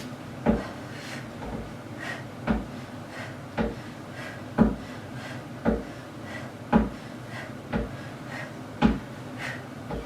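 Dull wooden knocks about once a second, some stronger and some weaker: a wooden plyo box bumping under each rep of decline knee tucks.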